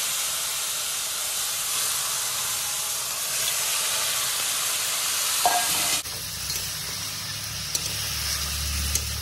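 Marinated chicken pieces sizzling loudly as they are poured into foaming hot butter in a wok. About six seconds in, the sizzle drops abruptly to a quieter frying hiss with a low hum underneath.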